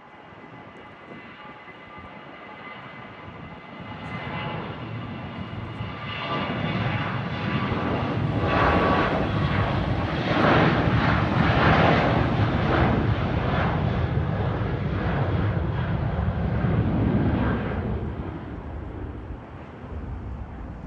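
Airliner passing low and close: its engines build over several seconds from a high whine to a loud rumbling roar, hold for about ten seconds, then fade away near the end.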